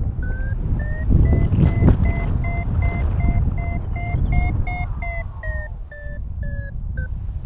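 Paragliding variometer beeping its climb tone, about two to three short beeps a second, rising in pitch and then falling away before it stops near the end: the glider is climbing in lift that strengthens and then weakens. Wind rushing over the microphone underneath.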